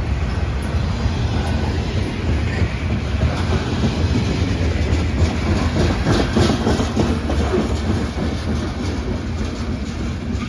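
CSX freight train rolling past, with a steady heavy rumble and its wheels clacking over the rail joints, the clacking thickest a little past the middle.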